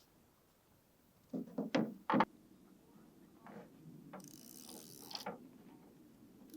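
A quick run of four or five sharp mechanical clicks and knocks, then a brief rasping hiss about a second long.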